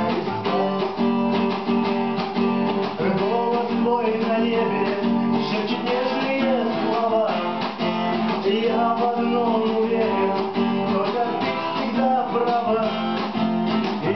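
Acoustic guitar strummed in a steady rhythm, with a melody line over the chords: an instrumental passage of a song.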